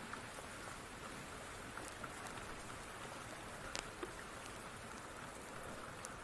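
Steady rain hissing, with a few sharp pops from a crackling wood fire, the loudest a little before four seconds in.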